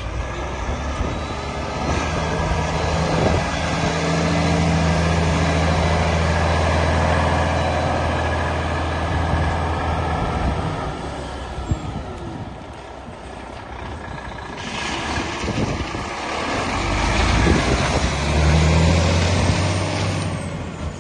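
Volvo FH 500's 13-litre six-cylinder diesel engine running, its note building up and holding steady, then easing off about eleven seconds in. About fifteen seconds in comes a long, loud hiss of air, typical of truck air brakes, while the engine picks up again.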